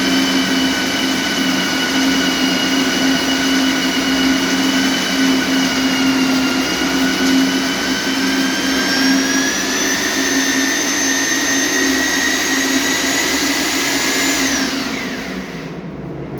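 Electric core drill motor running steadily with a high whine; its pitch rises slightly about two-thirds of the way in, then it is switched off and winds down near the end.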